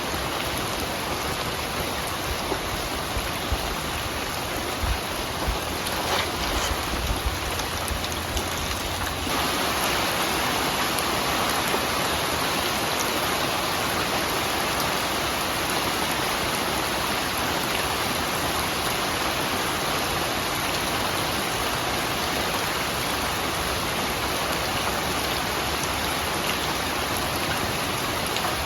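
Steady rain falling, an even hiss of drops on surfaces. There are a few low thuds between about four and eight seconds in, and about nine seconds in the rain grows a little louder and denser.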